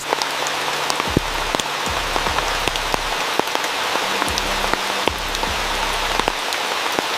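Steady heavy rain, a dense hiss scattered with irregular drop clicks, over soft background music.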